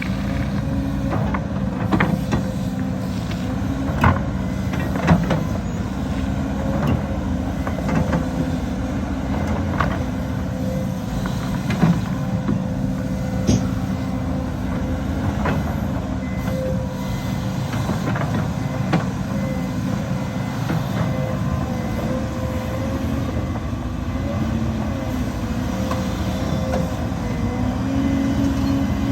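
Heavy diesel earthmoving machinery running steadily, with scattered sharp knocks and clanks over the engine hum.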